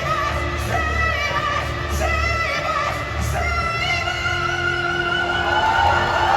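A male rock vocalist singing live with a band over a stadium PA, holding one long high note from about four seconds in to the end.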